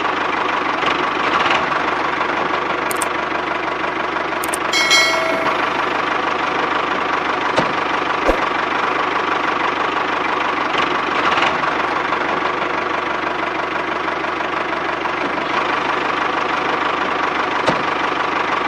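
Small electric motor of a homemade toy running steadily, with a few sharp clicks and a brief squeak about five seconds in.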